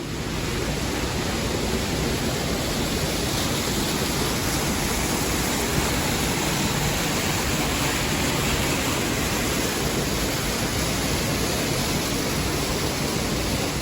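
Steady, even rush of falling water, starting and stopping abruptly.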